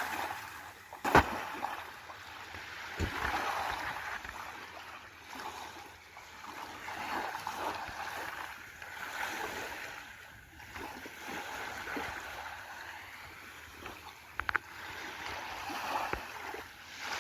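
Sea water washing and lapping in slow swells that rise and fall every second or two, with a sharp knock about a second in and a few fainter knocks later.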